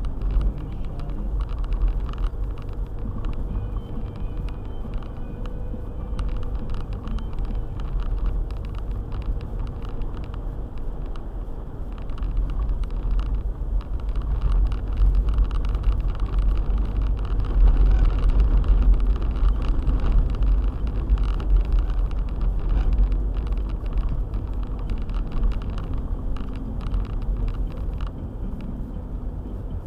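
Car driving on a snowy road: a steady low rumble of engine and tyres with many small ticks, growing louder about halfway through and then easing.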